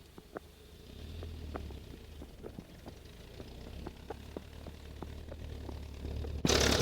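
GAZ-69A jeep's four-cylinder petrol engine running with a low rumble and scattered light knocks and clicks, then a sudden jump to a much louder, rougher engine-and-vehicle noise near the end.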